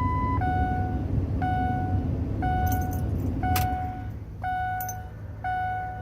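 Dashboard warning chime of a 2003 Ford F350 dinging about once a second, over the low rumble of its 7.3 Powerstroke diesel engine, which is hard-starting and running rough at start-up. A few light clicks fall in between.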